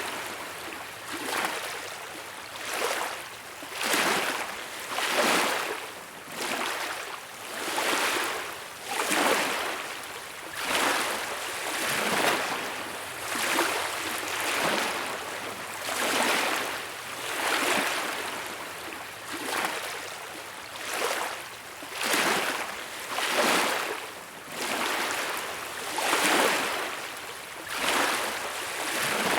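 Small waves washing onto a beach, each one a rush of hissing water that rises and falls back, coming in regular swells about every second and a half.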